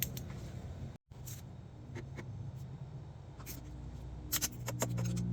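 Scattered light clicks and scrapes of hand tools and metal parts being handled during an engine-bay bolt job, with a low hum that swells near the end.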